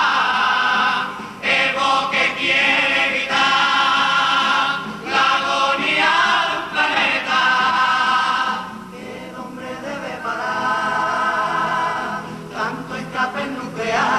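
Carnival comparsa chorus singing a verse together, a group of voices holding long sung notes over musical accompaniment.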